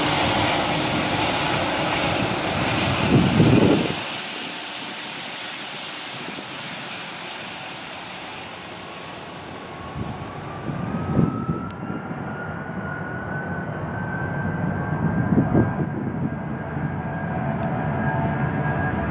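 Boeing 757-200 freighter's jet engines at departure power, the high hiss fading away over the first half as the aircraft climbs out of range. A few short low rumbles come and go, and in the second half a faint tone rises slowly in pitch.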